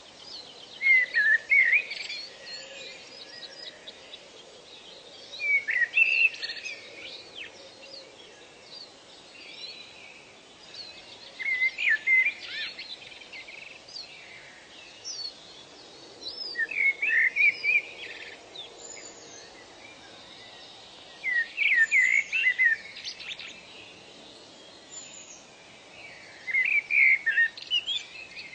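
A songbird sings a short burst of quick, high notes about every five seconds, six times, over fainter chirping of other birds and a steady soft background hiss.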